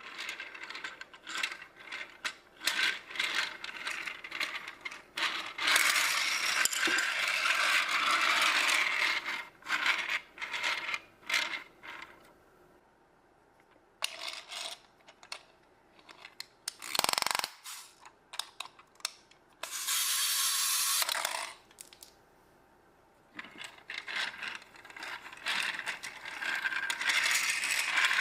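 Mega Bloks plastic pieces being handled: many small sharp clicks, rattles and scrapes, with denser rustling stretches about six and twenty seconds in.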